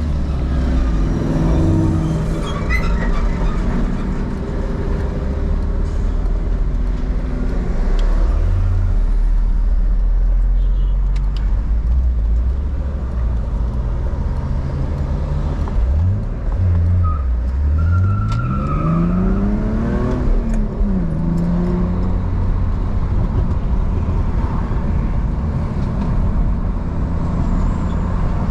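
BMW E46's engine running as the car is driven, the note shifting up and down with the revs; about two-thirds of the way through it climbs steadily for a few seconds, then drops away.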